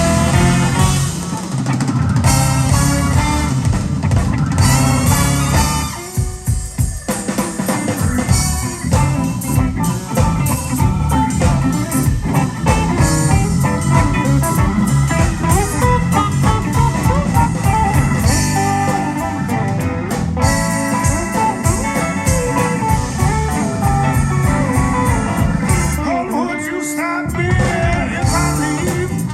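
Live blues band playing an instrumental break, with guitar over a drum kit. The low end drops out for about a second, twice: about six seconds in and near the end.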